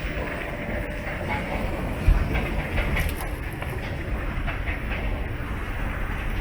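Train running on the rails, a steady low rumble with a sharp knock about two seconds in.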